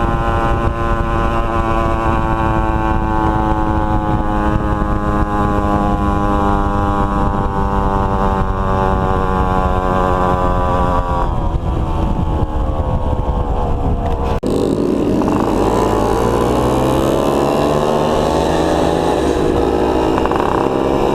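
Two-stroke motorcycle engine running under way at fairly steady revs, its pitch easing down about eleven seconds in. About fourteen seconds in the sound changes abruptly to engine noise with rising and falling revs.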